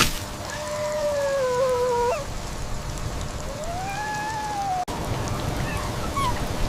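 A dog whining twice over steady rain: a long whine that sags slightly in pitch about half a second in, then a second one that rises and falls near the middle.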